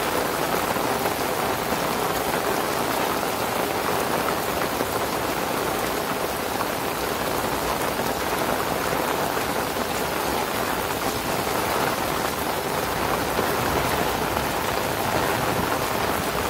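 Heavy rain pouring steadily onto wet paving and puddles, a dense, even hiss.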